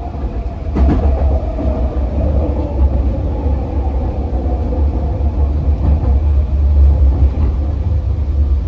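Vancouver SkyTrain in motion: a steady low rumble, with a faint tone falling slowly in pitch over the first few seconds and a single click about a second in.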